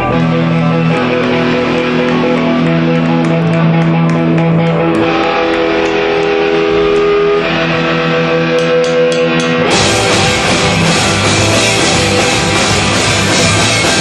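Live rock band playing: held, ringing guitar notes change pitch every second or two, then about ten seconds in the drums and the full band come in together and the sound becomes much fuller.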